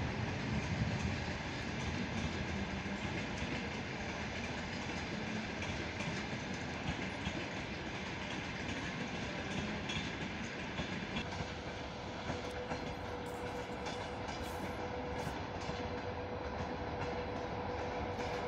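Train running on the rails: a steady rumble and rail noise, with a thin steady whine joining about eleven seconds in.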